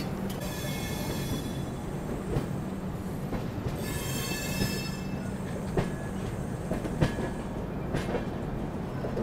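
Passenger express train running on the rails, a steady rumble with two spells of high-pitched wheel squeal, the first about a second in and the second around four seconds in. A few sharp clacks of the wheels come later.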